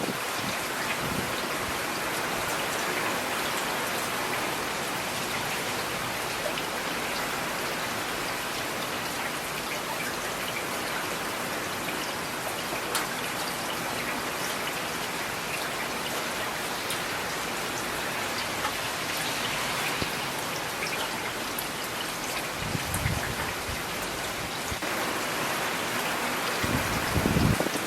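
Steady rain falling, with individual drops ticking on a surface. Near the end there are two brief low rumbles, the second one louder.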